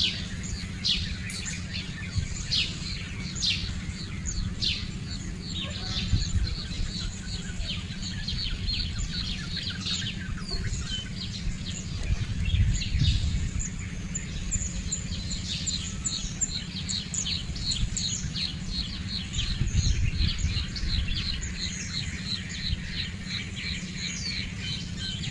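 Birds chirping: several downward-sweeping calls in the first half, then a fast run of short repeated chirps, about three a second, through the second half, over a steady low rumble.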